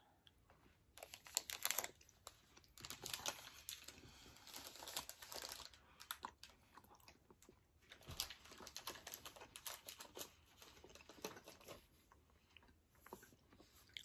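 Faint chewing of a bite of Snickers Cinnamon Bun bar, crackly mouth noises in two stretches, starting about a second in and again around eight seconds in.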